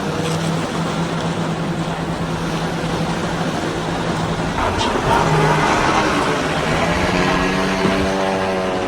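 Motorboat engines running over a steady hiss of water and wind. A low engine drone holds through the first half, and a second engine with a clear, steady pitch comes in about halfway through.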